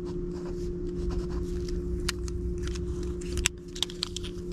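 Light clicks and rustling of small objects being handled, a sharp click about three and a half seconds in, over a steady low hum.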